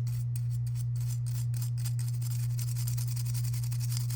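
A small brush scrubbing softened paint off alcohol-soaked plastic model parts in quick, regular strokes, about three to four a second, over a steady low hum.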